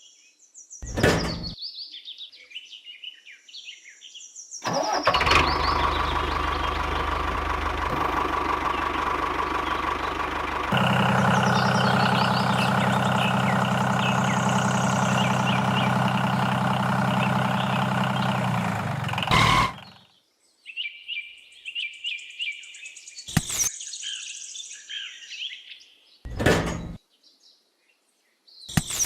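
A motor or engine running steadily for about fifteen seconds, starting and stopping abruptly, with its pitch changing suddenly about halfway through. Before and after it come bird chirps and a few sharp clicks.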